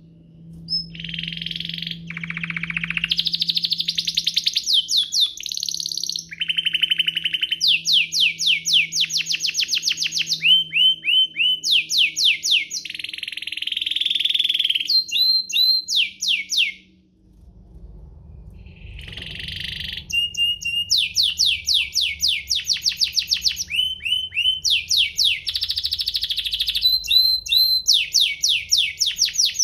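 Domestic canary singing a long song of fast trills and rolling runs of rapidly repeated notes. It breaks off briefly a little past halfway, then picks up again.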